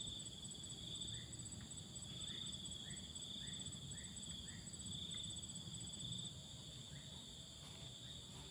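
A steady, high, pulsing insect chorus, with a run of short faint chirps about two a second in the first half.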